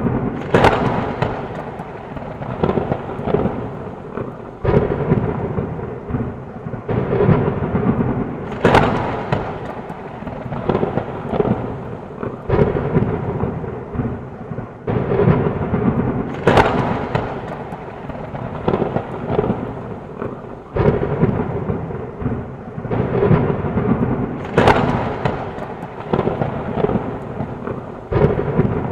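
Heavy rain with thunder: a steady rain hiss under frequent crackling thunder, with a sharp, loud crack about every eight seconds.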